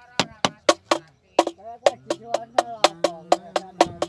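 Hard wooden knocks struck at an even rhythm of about four a second, with a voice singing or calling in sliding pitches over them. In a rice field this rhythmic knocking is a clapper being beaten to scare off munia birds.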